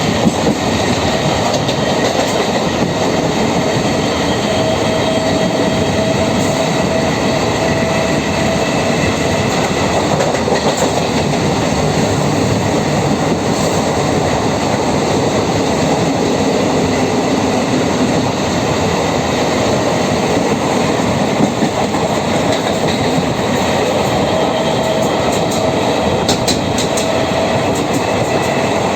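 Train running on the rails at speed: a steady, loud rumble with wheel clatter, and a faint thin whine that comes in twice.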